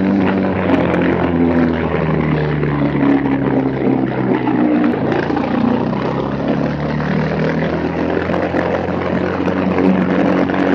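Unrestricted Briggs & Stratton Animal single-cylinder four-stroke racing kart engine running hard. The revs fall over a few seconds as it lifts into a corner, drop sharply about halfway through, then climb again as it accelerates back onto the straight.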